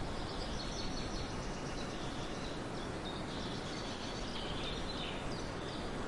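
Faint, scattered chirping of small birds high in pitch over a steady outdoor background hiss.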